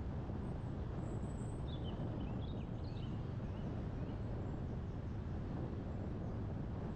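Steady low rumble of wind and road noise, with a few faint bird chirps about two to three seconds in.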